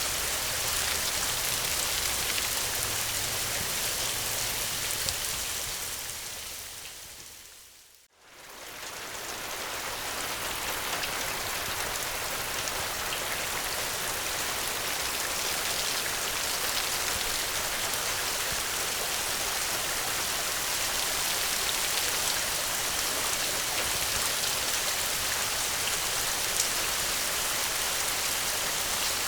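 Steady heavy rain falling. About six seconds in it fades away to almost nothing, then rises straight back to full strength shortly after eight seconds.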